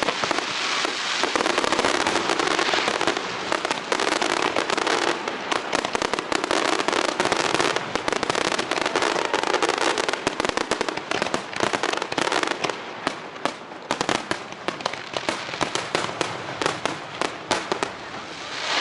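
Fireworks display: a dense, rapid run of bangs and crackling, getting more broken up in the last few seconds.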